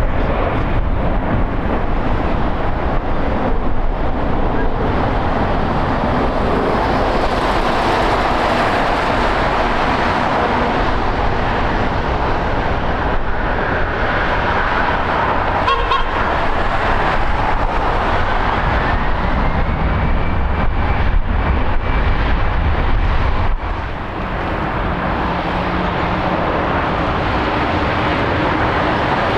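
Jet airliner engines running loud. About two-thirds of the way through, a high whine rises and then holds steady.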